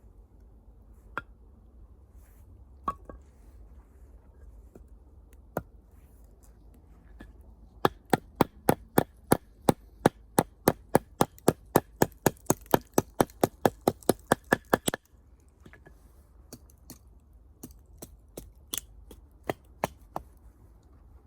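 Wood being chopped: a fast, even run of sharp strikes, about four a second, for roughly seven seconds in the middle. It is framed by scattered single cracks and knocks before and after.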